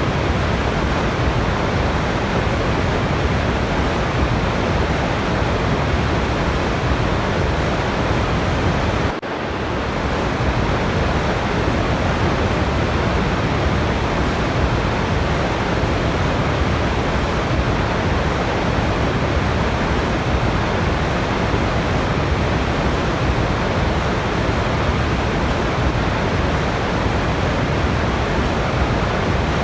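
Steady rushing of a waterfall, a dense even roar of falling water with no other sounds. It drops briefly about nine seconds in, then resumes.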